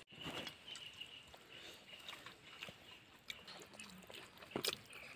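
Quiet eating by hand: chewing and mouth sounds with scattered small clicks, one a little louder about four and a half seconds in. A faint thin high tone comes and goes in the background.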